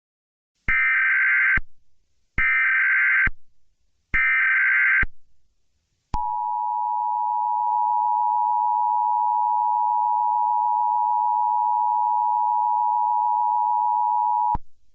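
Emergency Alert System SAME header: three short bursts of screechy digital data tones, each just under a second long. These are followed by the EAS two-tone attention signal (853 and 960 Hz together), held steady for about eight seconds before cutting off.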